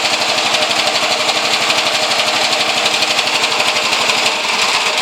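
A homemade three-cylinder engine built from Briggs & Stratton lawnmower engine cylinders runs steadily with a fast, even firing rhythm.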